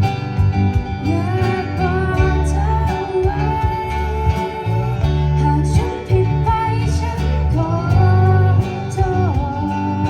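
A band playing a song: drums keeping an even beat under a heavy bass line and guitar, with a lead melody that slides and bends in pitch.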